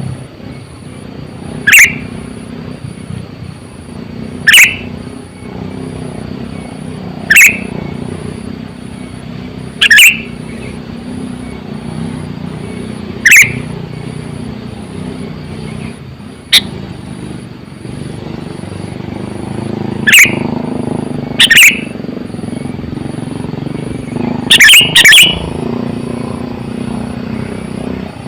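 Sooty-headed bulbul (kutilang) giving short, sharp calls about every two to three seconds, about ten in all, with two in quick succession near the end. A steady low rumble runs underneath.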